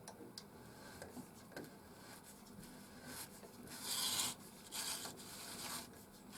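Pencil compass scribing a 45 mm circle on the end of a wooden blank: faint scratching in a few short strokes, the loudest about four seconds in.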